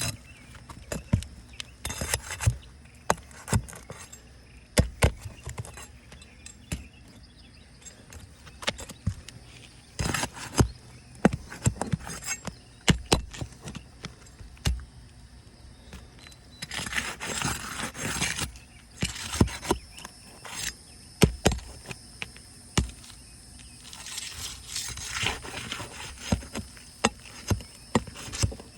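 Roofing nails being pried out from under lifted asphalt shingles with a metal tool: irregular sharp metal clicks and knocks, with a few longer scraping rasps, the loudest about 17 to 18 seconds in.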